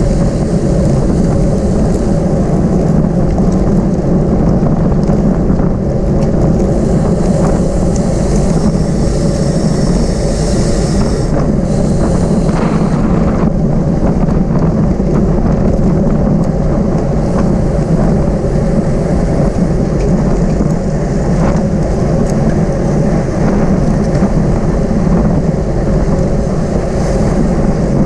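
Wind buffeting the microphone of a camera on a racing bicycle at speed: a loud, steady rumble, heaviest in the low end, with the hiss of rushing air above it.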